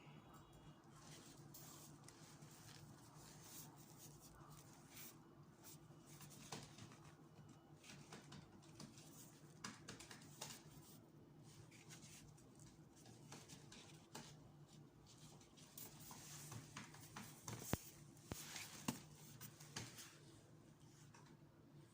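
Faint handling noises: scattered light clicks and rustles over a steady low hum. They grow busier toward the end, with a couple of sharper clicks.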